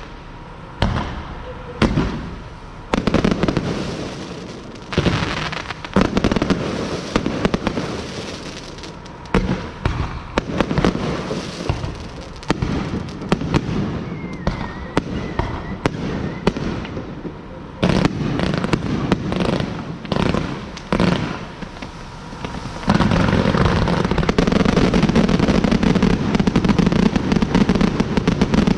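Fireworks going off in a display: a string of sharp bangs every second or so, each trailing off. About 23 seconds in they merge into a dense, continuous barrage.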